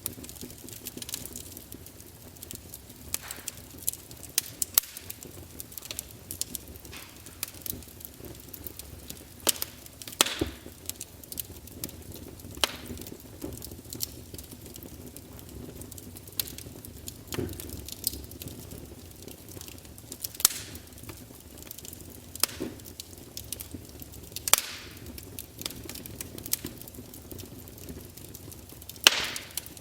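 Wood fire crackling in a fireplace: irregular sharp pops and snaps from the burning logs over a soft steady hiss, with a few louder cracks at intervals.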